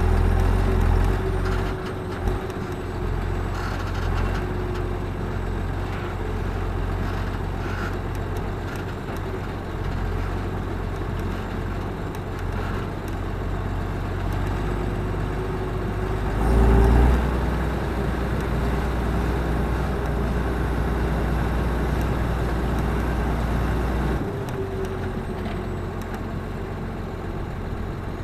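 Claas Axion 820 tractor's six-cylinder diesel engine running steadily, with a brief louder surge a little past halfway and a drop in level a few seconds before the end.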